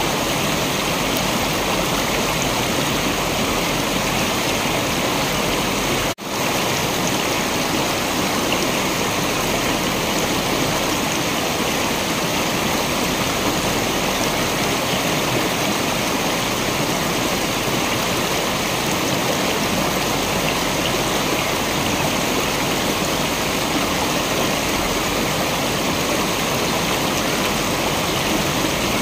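Waterfall rushing in a steady, dense wash of white-noise-like water sound, with a split-second dropout about six seconds in.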